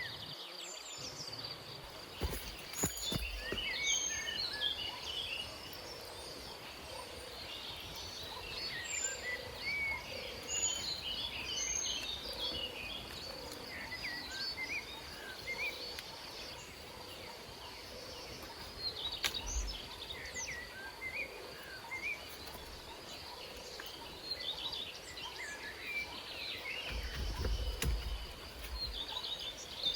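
Tropical forest ambience: many birds chirping and calling in short bursts over a steady high-pitched insect drone and a constant background hiss, with a few dull low thumps.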